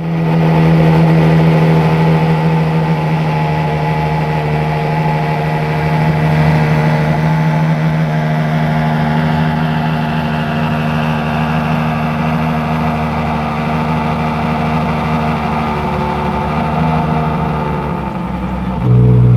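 Ferrari Monza SP1's 6.5-litre V12 running at a steady engine speed, its note holding one pitch. Near the end the note drops to a lower pitch and gets louder.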